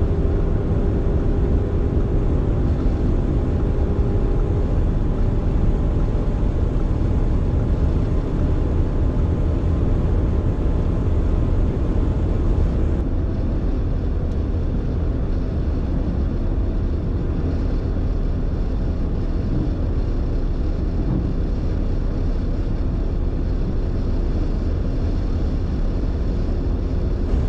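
4.0-litre V8 performance SUV running at speed: a steady, heavy low drone of engine and road noise with faint steady engine tones above it. The sound changes abruptly about halfway through.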